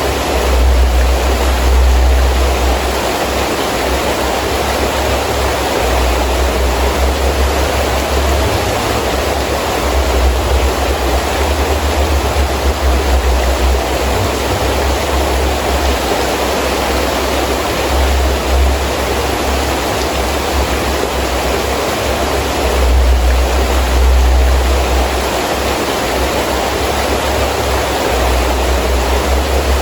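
Heavy rain falling steadily in a windstorm, with low rumbling gusts of wind that swell and die away every few seconds.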